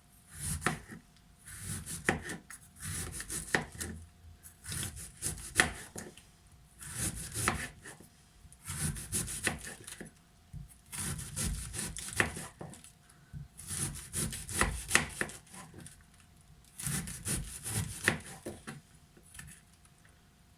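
Knife slicing through red cabbage in runs of quick strokes, with short pauses between the runs.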